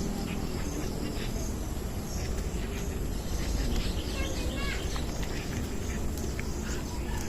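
Several birds chirping and calling in short, overlapping notes, with a few falling calls around the middle, over a steady low rumble.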